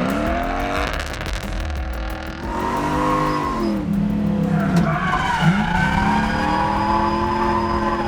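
Toyota 1UZ 4.0-litre V8 in a drift car, revving up and down through a slide. The engine note drops and climbs again several times, over the sound of skidding tyres.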